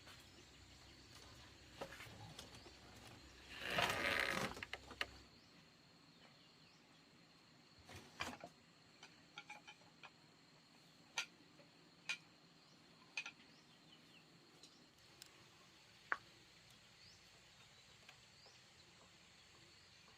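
Quiet outdoor ambience with a faint steady high-pitched drone, a brief rustling noise about four seconds in, and a handful of sharp clicks or taps scattered through the rest.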